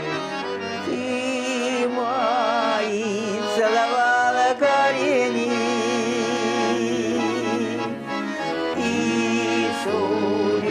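Garmon (Russian button accordion) playing a song melody, with a wavering held sung line over it at times.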